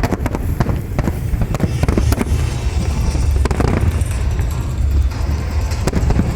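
Fireworks display in full barrage: a dense, rapid run of sharp bangs and crackles over a continuous low rumble of booming shells, loud throughout.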